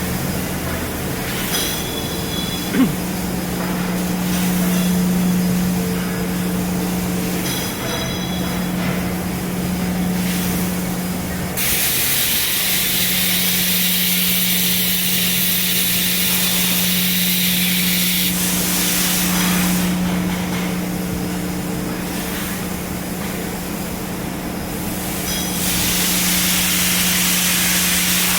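3 kW fiber laser cutting machine running with a steady electrical hum. Two long stretches of loud hissing come in, one about a third of the way through lasting several seconds and another near the end, with a brief sharp blip early on.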